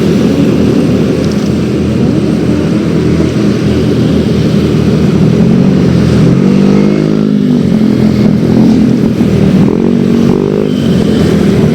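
Yamaha X-Ride 113cc scooter's single-cylinder engine running on the road, its pitch rising and falling twice as the rider opens and eases the throttle, about six seconds in and again near nine seconds.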